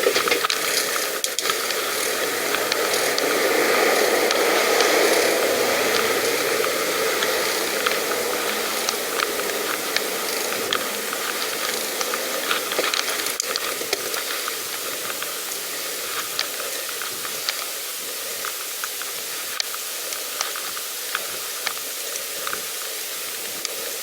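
Pedal bicycle on the move: a steady hiss of wind and tyre noise with light ticking from the freewheel. The hiss swells about four seconds in and then eases off.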